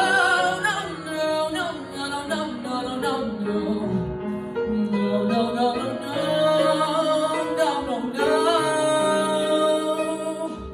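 A voice singing a wordless melody with wavering, gliding pitch over sustained instrumental accompaniment.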